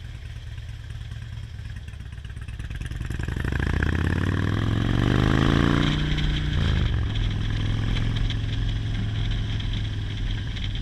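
Motorcycle engine running low, then revving up with rising pitch as the bike accelerates. About six and a half seconds in the pitch drops at a gear change, and the engine then runs steadily.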